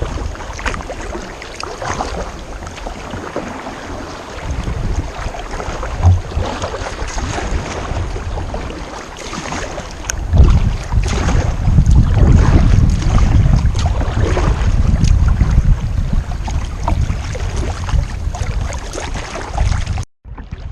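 Kayak paddles dipping and splashing in river water with wind buffeting the microphone. The low wind rumble grows much heavier about halfway through.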